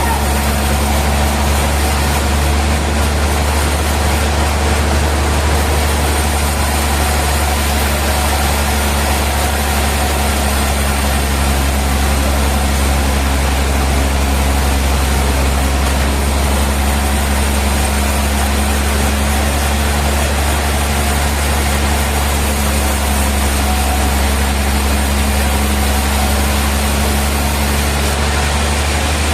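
Industrial sawmill machinery running steadily, a loud, constant low drone with a noisy hiss over it.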